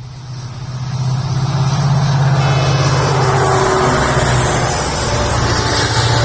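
Express passenger train approaching and passing close by: a low, pulsing engine throb under a rushing rumble of wheels on rail. It grows louder over the first second or so, then stays loud and steady.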